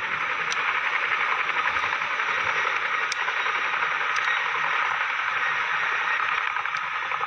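Steady, hissing roar of a large military helicopter's engines and rotors, with no clear rotor beat.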